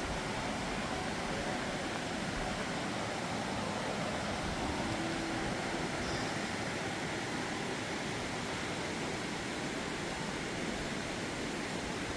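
Waterfall rushing, a steady even hiss of falling water with no breaks.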